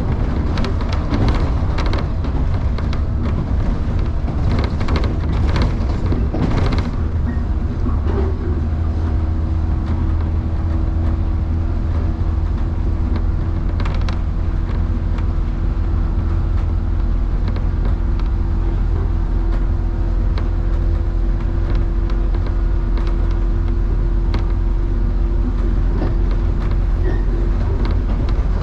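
Electric train running along the track, heard from on board, with a steady low rumble. In the first seven seconds there is a quick run of wheel clicks over the rails, with one more click later. About eight seconds in, a steady hum sets in and holds.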